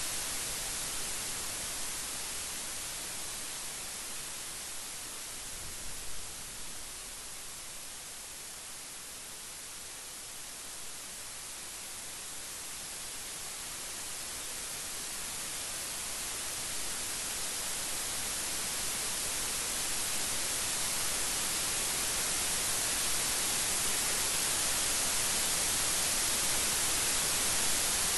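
Steady rain falling as an even hiss that eases slightly partway through and then swells louder toward the end.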